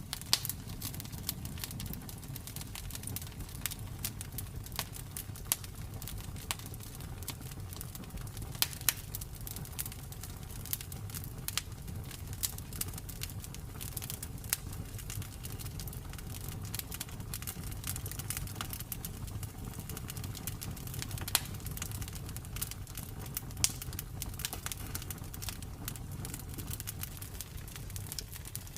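Campfire burning steadily, wood crackling and popping in quick irregular snaps over a low rumble of flame, with a few louder pops.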